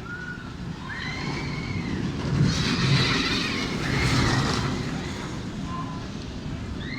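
Amusement park train going by: a steady low rumble that swells into a louder rush about two and a half seconds in, then eases off, with high chirps over it.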